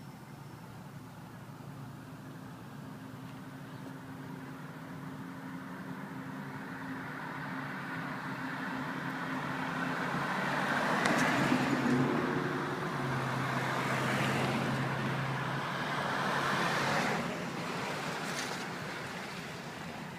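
Motor vehicle engines and road noise, swelling as vehicles pass and loudest a little past halfway, then fading, with a steady low engine hum underneath.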